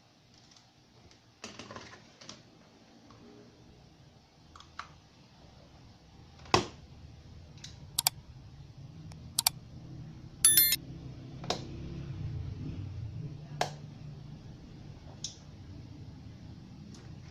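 Scattered sharp clicks and taps, about a dozen, with a low hum that comes up about ten seconds in.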